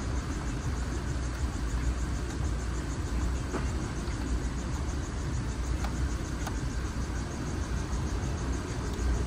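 A 2015 Ford Explorer's 3.5L V6 running at idle with a steady low rumble and hiss, heard from inside the cabin with the climate system on. A few sharp clicks from the climate-control buttons and knob come about three and a half, six and six and a half seconds in.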